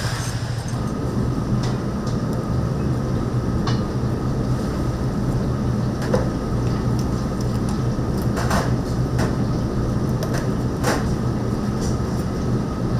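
A steady low mechanical hum with a faint high whine, broken by a few light clicks and knocks.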